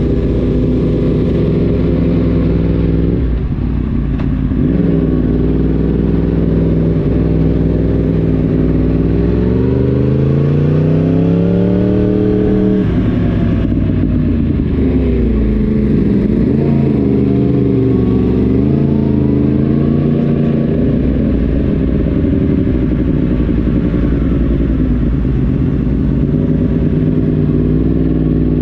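Yamaha YZF-R1 crossplane inline-four engine running under way, its exhaust note rising and falling with the throttle. Revs climb steadily for a few seconds, then drop sharply about 13 seconds in, and vary again shortly after.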